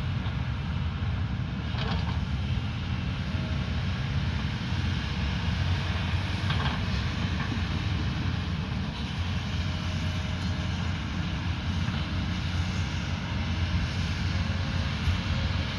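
Diesel engine of a heavy earth-moving machine running steadily under work, with a couple of faint knocks about two and six seconds in.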